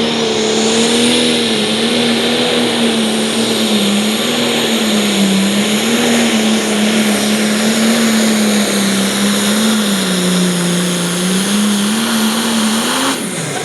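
International 1466 light limited pro stock pulling tractor's diesel engine running at full throttle under load through a pull, its pitch holding steady with small wavers. Near the end it comes off the throttle and the pitch falls away as the run finishes.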